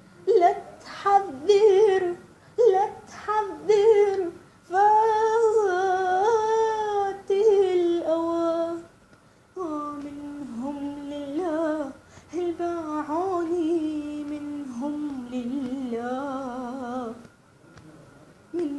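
A girl singing unaccompanied, an Arabic song with long ornamented, wavering notes. She pauses briefly about halfway through, then carries on lower in pitch, with a second short pause near the end.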